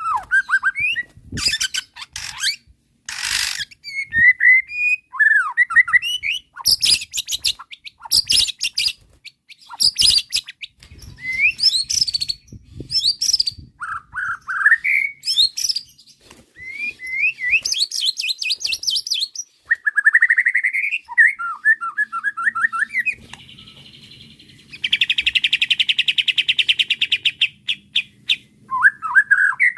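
White-rumped shama (murai batu) singing a loud, varied song: rising and falling whistles mixed with rapid, harsh chattering runs, and a few seconds of fast buzzing trill near the end.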